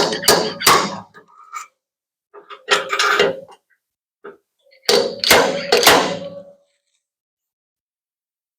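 Body hammer tapping the sheet metal of a pickup bed panel to work out a dent and take tension out of the metal. A quick run of ringing taps lasts about a second, followed by two more short bunches of taps about three and five seconds in.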